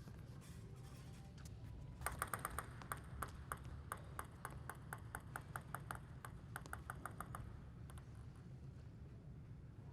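Plastic table tennis ball striking table and rackets in quick succession: a run of sharp pings, about four or five a second, starting about two seconds in and stopping about two seconds before the end, over a steady low hall hum.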